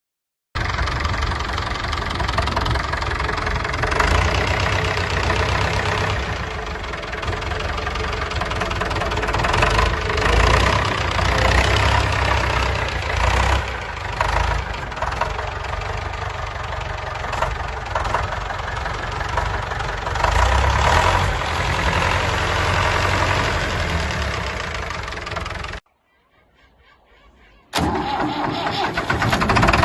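David Brown 995 tractor's three-cylinder diesel engine running steadily. The sound breaks off for about two seconds near the end, then resumes.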